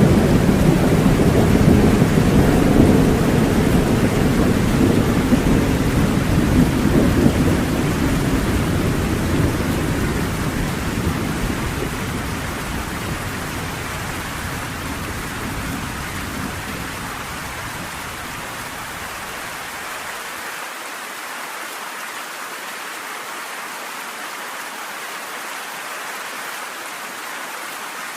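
Steady rain with a long, low thunder rumble that slowly fades away and is gone about two-thirds of the way through, leaving only the even hiss of the rain.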